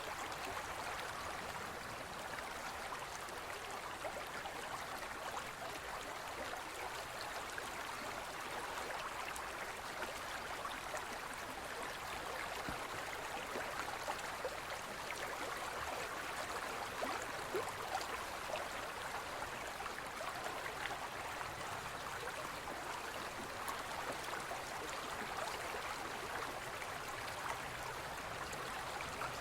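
Forest river flowing steadily over stones, an even rush with fine splashing and gurgling.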